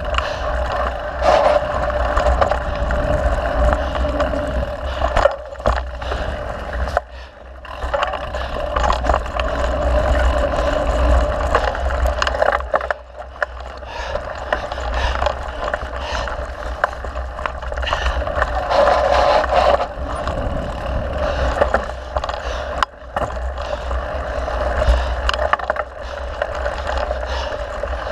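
Mountain bike rolling along a dirt trail: tyres on the ground, with frequent rattles and clicks from the bike over bumps and a steady low rumble. The noise drops briefly twice.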